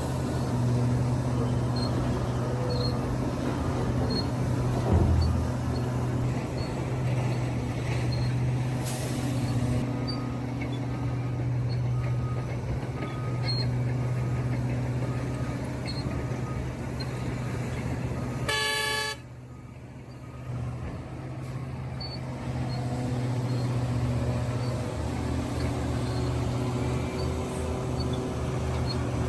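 Large diesel earthmoving machinery running steadily at a mine site, with one short horn toot about two-thirds of the way through, after which the engine noise drops for a few seconds.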